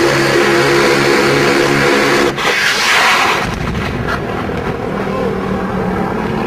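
Helicopter engine and rotor noise: a steady, choppy drone, with a rushing swell of noise about two and a half seconds in.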